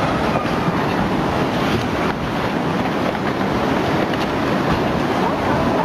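Floodwater rushing in a loud, steady wash of noise, with wind buffeting the microphone.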